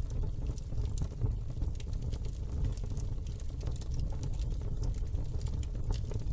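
Wood fire crackling in a fireplace: a steady low rumble with frequent small, irregular crackles and pops.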